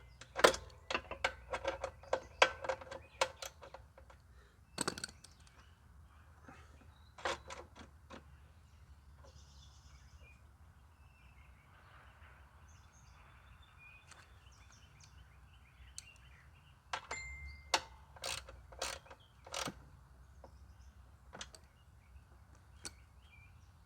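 Scattered sharp metallic clicks and taps of hand tools working on a bolt, a quick run of them at the start and another cluster past the middle, with quiet stretches between.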